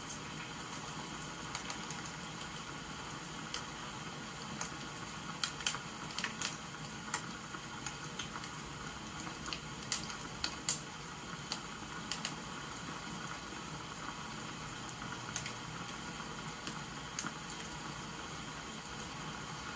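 Wood fire crackling with scattered sharp pops, several in quick succession near the middle, over a steady hiss of rain.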